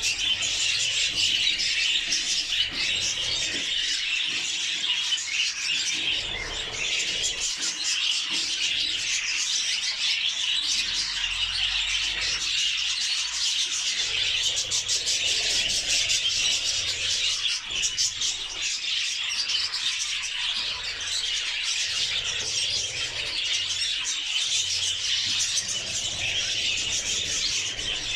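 Budgerigars chattering nonstop, a dense stream of quick high chirps and squeaks.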